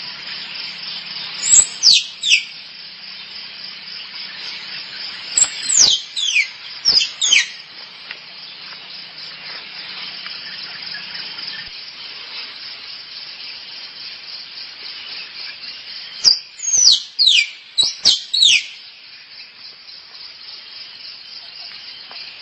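Squirrel mating calls: three bouts of sharp, high chirps, each sweeping quickly downward in pitch, two to five in a bout. A steady high hiss runs beneath them.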